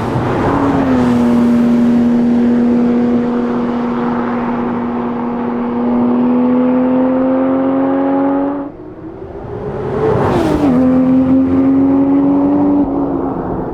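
Porsche 911 R's 4.0-litre flat-six engine and exhaust running under steady load, its note slowly rising. About nine seconds in the sound drops away sharply, then swings up and back down in pitch before settling into a steady note again.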